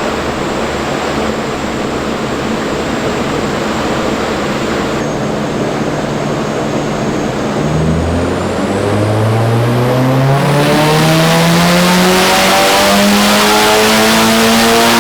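Big-turbo Nissan S15's SR20DET four-cylinder on a chassis dyno: a steady loud rush of noise, then about eight seconds in the engine note starts climbing steadily in pitch as it pulls up through the revs under load.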